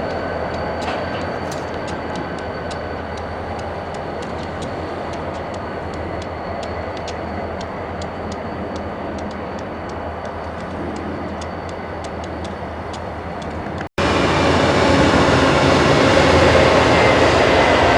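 Freight cars rolling through a rail yard, wheels clicking sharply and irregularly over rail joints and switches over a steady rumble, with a faint high squeal. About 14 seconds in the sound cuts off for an instant and comes back louder and fuller.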